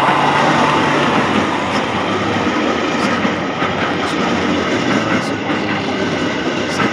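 A 205-series electric commuter train passing close by at speed: a steady loud rumble of wheels on rail, with a few separate clicks of the wheels over the track.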